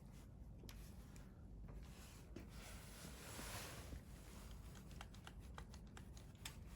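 Faint crackling of a wood campfire: scattered small pops and ticks, coming quicker in the second half, with a soft rush of hiss around the middle.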